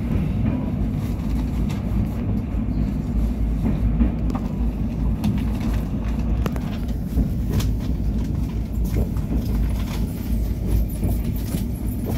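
Passenger train running over a river bridge, heard from on board: a steady low rumble of wheels on rail with scattered sharp clicks and knocks.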